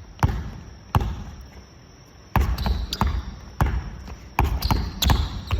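Basketballs bouncing on a hardwood gym floor: about eight separate thuds at an irregular pace, each ringing briefly in the hall.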